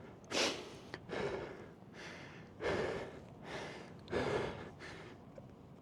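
A man breathing hard, about seven heavy breaths in quick succession, from the effort of pushing and manhandling a heavy motorcycle stuck in sand.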